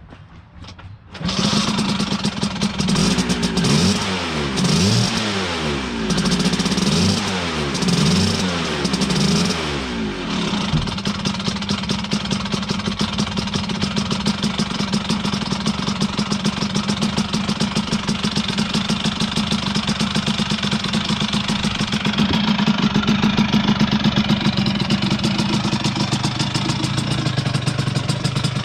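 Kitted 1982 Vespa P100 smallframe's single-cylinder two-stroke engine catching about a second in, cold and without the choke. It is revved up and down about five times, then settles into a steady idle to warm up.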